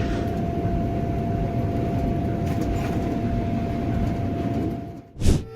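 Train running along the track: a steady rolling rumble with one held tone. Both stop about five seconds in, followed by a short, loud burst of noise.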